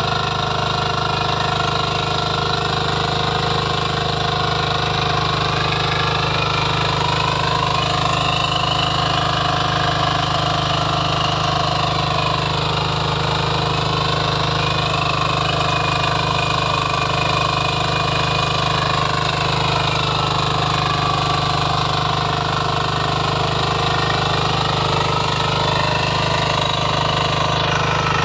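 Power weeder's small engine running steadily, with a rapid mechanical clatter and its pitch wavering slightly up and down now and then.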